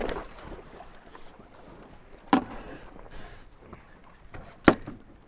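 Wind and water rushing past a Tornado catamaran through a tack, with two sharp knocks on the boat about two seconds apart, the second one louder.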